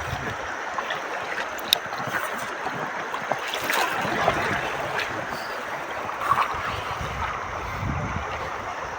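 River water rushing and splashing steadily around a rafting boat, with some wind noise on the microphone.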